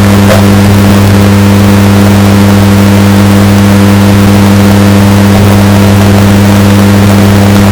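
Washing machine running with a steady, unchanging motor hum, heavily bass-boosted and distorted so that it plays at full volume.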